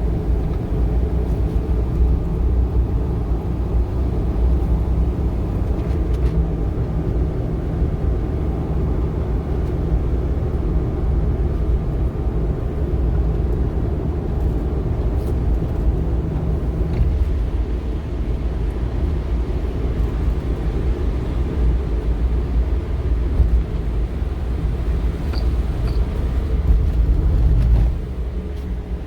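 Steady low rumble of strong typhoon wind buffeting the microphone, mixed with the noise of surf.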